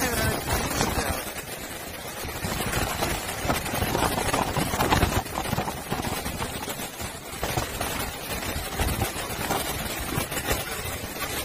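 Typhoon wind gusting on the microphone over heavy surf: an unsteady noise that swells and drops, heaviest in the low end.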